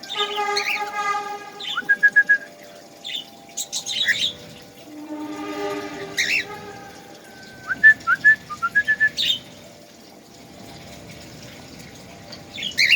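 A bird calling: runs of short, sharp chirps and whistled notes, broken by two longer, harsher calls, one at the start and one about five seconds in. It falls quieter for a couple of seconds near the end.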